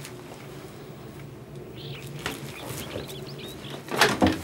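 Faint bird chirps over quiet room tone, with a brief loud clatter of knocks near the end.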